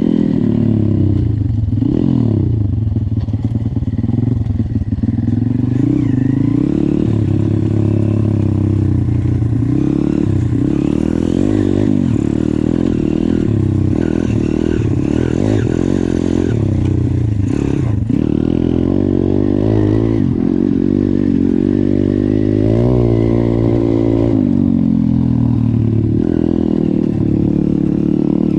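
YCF 150 pit bike's four-stroke engine under way, its pitch climbing and dropping again and again as the throttle is opened and closed.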